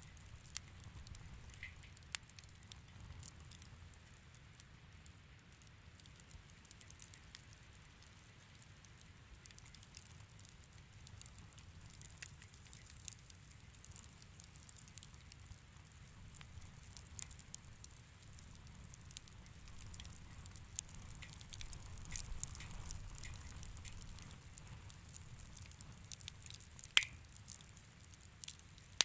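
Wood fire in a fireplace crackling softly, with scattered small pops and one sharper pop about 27 seconds in, over a faint low rumble.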